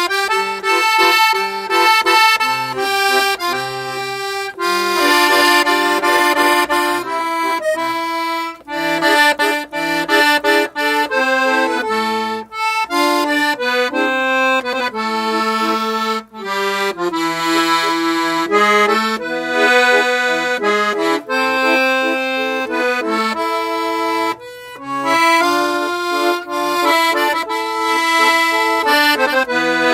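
Parrot 80-bass piano accordion being played solo, a melody over bass and chord accompaniment, with steady reed tones and short breaks between phrases.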